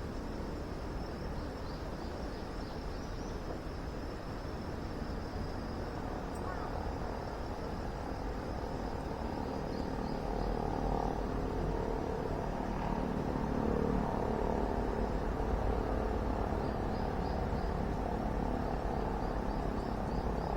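Steady outdoor background noise with a low rumble, a faint high chirping that recurs throughout, and a mid-range murmur that grows a little louder about halfway in.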